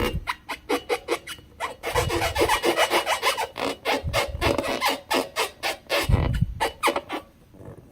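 Slime being squished and worked by hand: a fast, irregular run of sticky crackles and clicks, with a few dull thuds, thinning out near the end.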